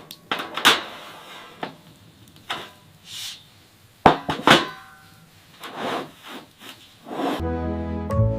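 A series of about ten irregular knocks and thuds, a second or so apart, then background music coming in near the end.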